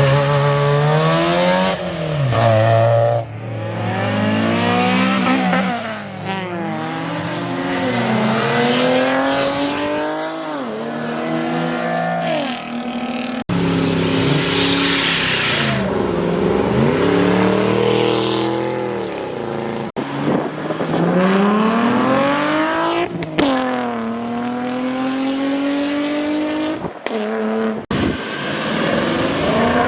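Performance cars revving and accelerating hard, engine pitch climbing and dropping repeatedly through gear changes, with abrupt breaks about 13 and 20 seconds in.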